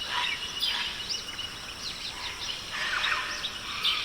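Tropical forest night ambience: many quick, downward-sliding chirping calls from birds or frogs overlap a steady, rapidly pulsing high trill.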